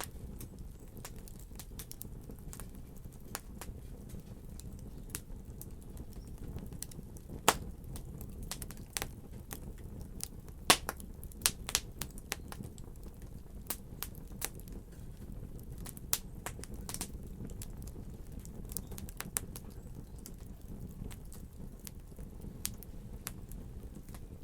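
Wood fire crackling: irregular sharp pops and snaps over a steady low rumble of flames, with a cluster of louder pops in the middle.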